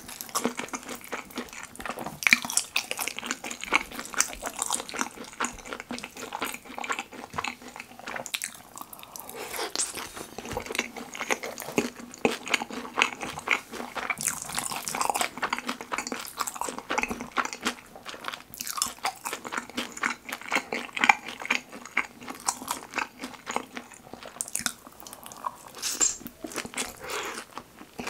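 Close-miked chewing of kimchi pizza tangsuyuk, sauce-coated fried pork with kimchi and melted cheese: a dense run of small crunches and mouth clicks as a mouthful is bitten and chewed.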